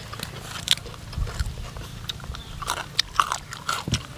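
Close-up biting and chewing of crunchy fried sun-dried beef, with a string of short sharp crunches, most of them in the second half.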